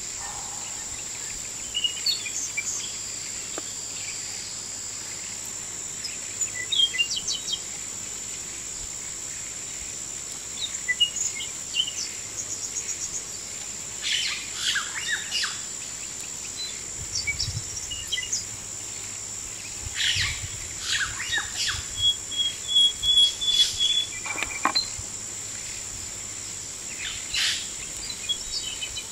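Birds chirping and calling in scattered short phrases over a steady high-pitched insect drone, with bursts of busier calling now and then.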